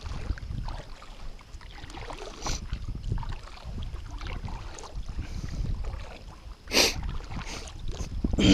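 Kayak on the water with a low, uneven rumble of wind and water noise, a faint short burst of noise about two and a half seconds in and a louder one near seven seconds.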